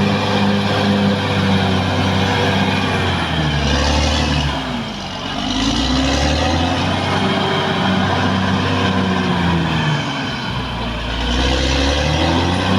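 Caterpillar D6R XL bulldozer's diesel engine running hard. Its revs drop twice, about four and ten seconds in, then climb back each time.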